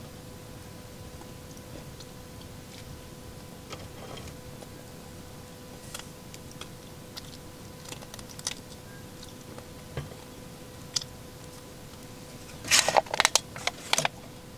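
Close-up crunching and chewing of crisp food, a few small crunches spread out, then a burst of loud crinkling crackles about a second and a half before the end.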